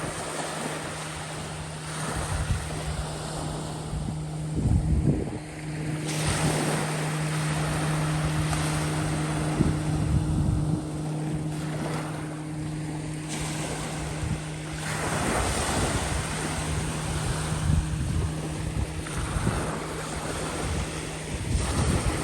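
Small bay waves washing on the shore, with wind gusting on the microphone. A steady low engine hum runs through the middle and fades near the end.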